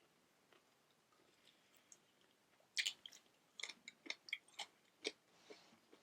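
Someone eating: after a quiet start, a run of crisp crunching and chewing clicks that lasts about two and a half seconds, with the first crunch the loudest.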